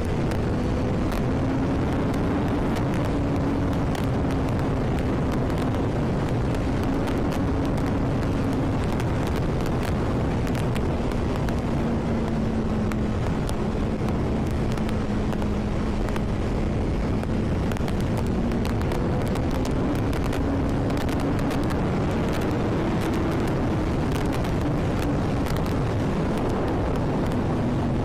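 Honda CBR1000RR's inline-four engine running at a fairly steady speed under way, its note drifting slowly up and down, under a constant rush of wind noise.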